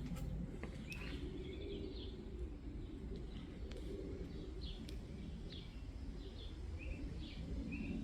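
Faint bird chirping: short chirps repeating about every half second over a steady low background rumble.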